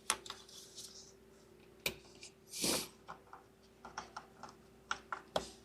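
Plastic electrical connectors and wiring harness being handled and plugged in: a scattering of small sharp clicks and plastic ticks, with a brief rustle of the harness just before the middle. A faint steady hum sits underneath.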